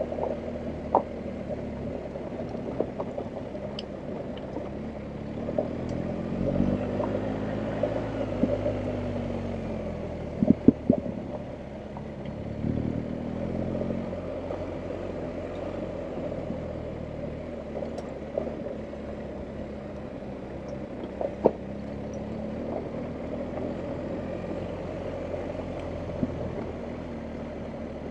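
BMW R1250GS Adventure's boxer-twin engine running at low revs while riding off road, the pitch rising and falling with the throttle twice. Several sharp knocks and some clatter sound over it.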